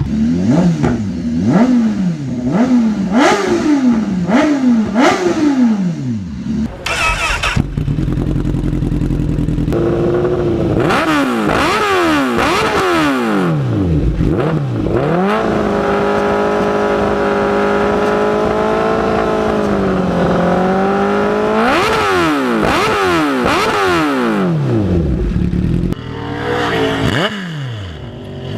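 Motorcycle exhaust as the engine is revved in place: about five quick throttle blips in the first six seconds, then longer revs, and a high rev held steady for about six seconds before it drops back, with more blips near the end.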